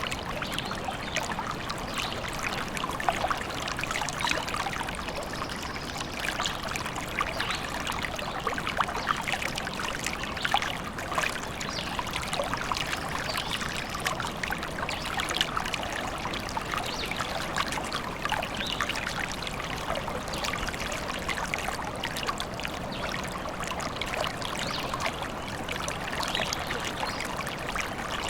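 Small stream running and trickling steadily, a continuous babble of water with quick little splashes.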